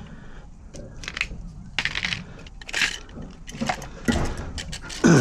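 Small metal parts clicking and clattering as a UPVC door lock gearbox is handled and fitted, with a louder knock near the end.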